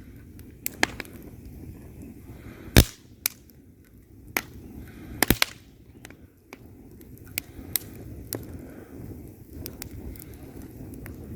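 Wood fire crackling in a fireplace: irregular sharp pops and snaps from the burning logs over a soft, low burning rumble. The loudest pop comes a little under three seconds in, and a quick cluster of pops follows just past five seconds.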